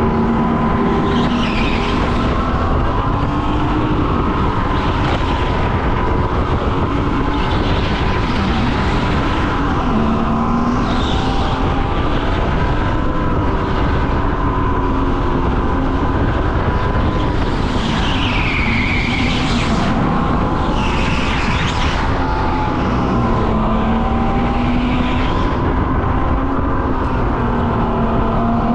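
Go-kart running at speed on a track: a steady motor hum that wavers slightly in pitch, over constant rushing noise, with brief high tire squeals every few seconds through the corners.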